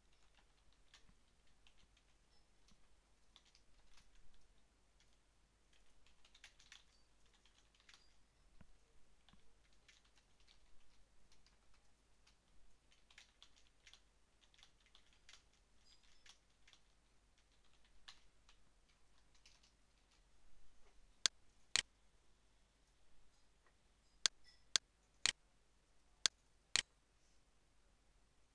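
Faint typing on a computer keyboard, a scatter of soft key taps. In the last several seconds about seven much louder sharp clicks, in twos and threes about half a second apart, from a computer mouse.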